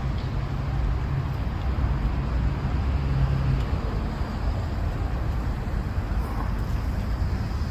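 Steady road traffic noise: a continuous low rumble of vehicles on a congested street.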